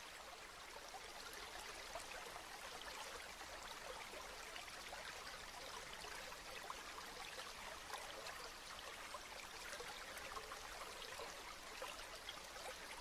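Steady rain falling, a continuous hiss of many small drops with fine patters scattered through it.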